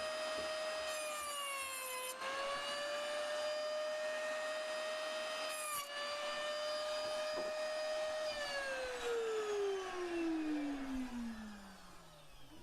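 Electric wood saw running at a high whine, bogging down twice as it cuts through wood for bee-hive frames, with a burst of cutting noise each time. About 8 seconds in it is switched off and the whine falls steadily as the blade spins down.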